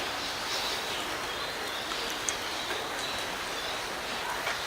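Steady rain hiss, with a faint short high chirp or tick about two seconds in.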